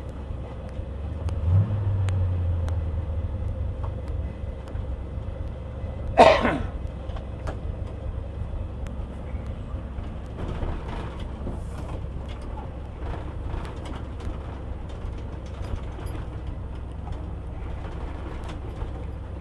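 Ford F600 grain truck's engine running with a steady low rumble, briefly picking up revs about two seconds in. A short, loud, sharp sound cuts through about six seconds in.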